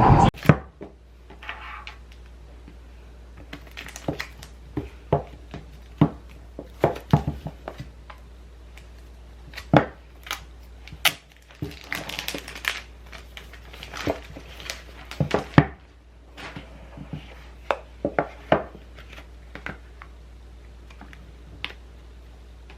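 Irregular clicks, knocks and rustles of small objects being handled, with a low steady hum underneath.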